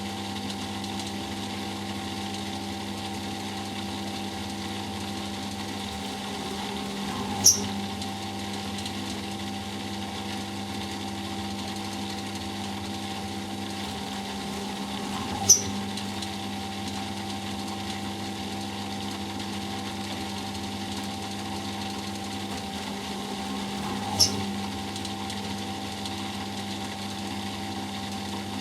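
Eudora Sparmeister 702 washing machine in its final spin, running with a steady motor hum and whine. A sharp short click sounds about every eight seconds, three times.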